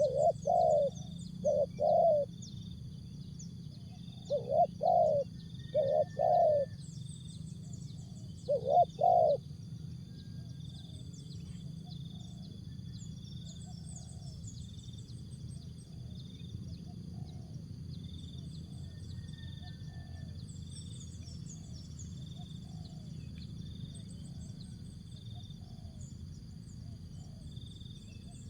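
Spotted dove cooing loudly in short groups of two to four low notes, with the last group about nine seconds in; after that only faint background with small birds chirping.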